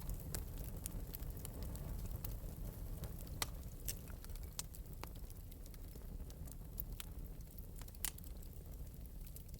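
Wood fire burning in an open metal fireplace, a steady low rumble of flame with scattered sharp crackles and pops, two of them louder, about three and a half and eight seconds in.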